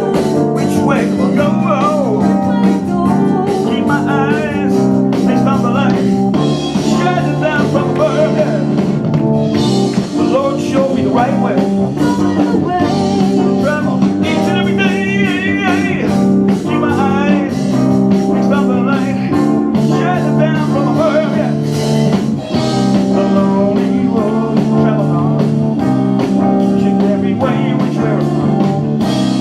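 Live band playing a blues-rock song: electric guitar and drum kit over steady bass notes, with a lead line bending and wavering above.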